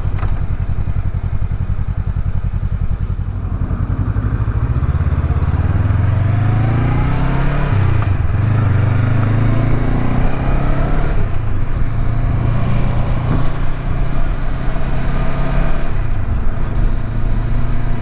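Motorcycle engine running on the road at a low, steady pace, then accelerating from about five seconds in, its pitch climbing, dropping at a gear change and climbing again, before settling back to a steady cruise.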